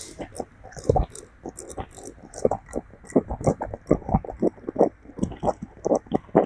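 A monkey grooming a person close up: rapid, irregular wet smacking and clicking mouth sounds, several a second, like chewing.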